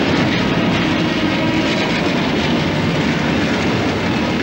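The Ghan passenger train running along the line: steady noise of the train and its rolling carriages.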